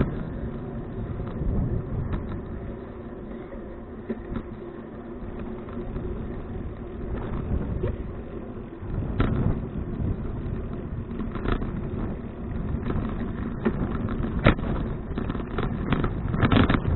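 Wind buffeting a handlebar action camera's microphone over the rumble of a touring bicycle rolling along the road, with a few sharp knocks and rattles from the bike.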